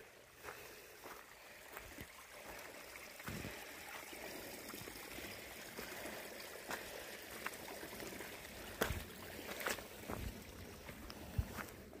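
Footsteps on a path with the steady rush of running water from a small stream, which grows louder a few seconds in and fades near the end.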